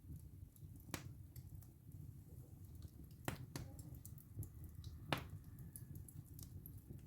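Wood fire burning in a fireplace: a steady low flame rumble under constant small ticks, with four sharp cracks of splitting wood, the loudest about three and five seconds in.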